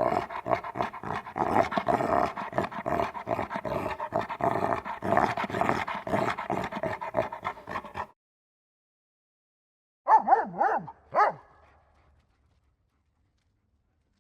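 A dog growling for about eight seconds, a dense rough sound pulsing several times a second, which stops suddenly. After a short pause come three short yelps, each falling in pitch.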